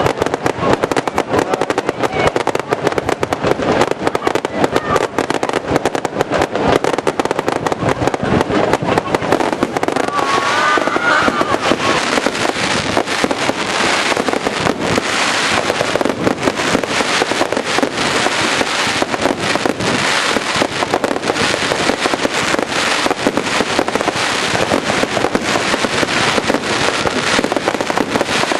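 Fireworks display heard at close range: a dense, continuous barrage of rapid bangs and crackles from bursting shells.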